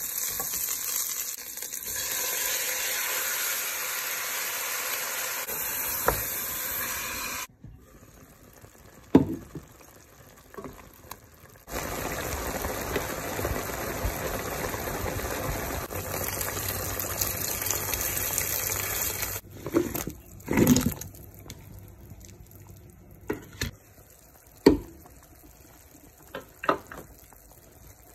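Onions and shallots sizzling as they sauté in oil in a stainless steel pot, stirred with a wooden spoon; after a cut, chicken thighs sizzle and bubble in the pot with a steady hiss. Near the end the hiss drops away, leaving a few sharp knocks and splashes as corn goes into the boiling broth.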